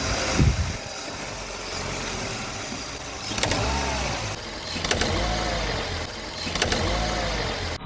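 Hyundai Accent engine running, with a heavy knock about half a second in and three more knocks, each with a short rising-and-falling creak, roughly every second and a half. The metallic knock comes from a worn front right engine mount.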